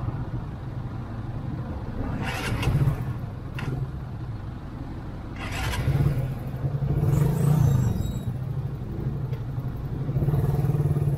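Motorcycle engine running at low speed in stop-and-go traffic, with a steady low rumble that swells louder several times, mixed with the engines of the vehicles around it.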